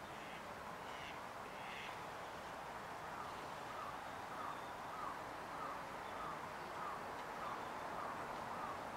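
A bird calling over and over in an even series of short calls, about two a second, starting some three seconds in, with a few fainter, higher bird calls before it, over a steady outdoor background hiss.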